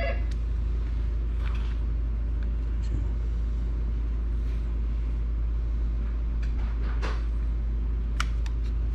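Steady low hum with no change in level, and a few faint light clicks from small parts of a Nintendo Switch's plastic shell and kickstand being handled.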